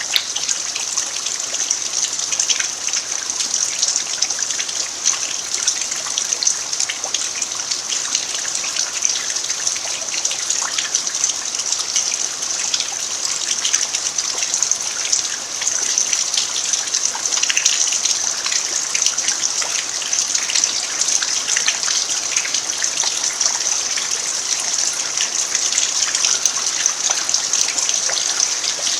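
Steady rain falling on a dirt yard: a dense patter of drops over an even hiss that holds level throughout.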